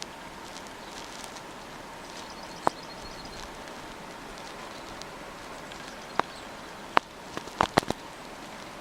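Steady hiss of snowstorm ambience at a bird feeder, broken by several sharp taps, most of them in a quick cluster about three-quarters of the way through. A faint, brief high trill from a small bird comes about two and a half seconds in.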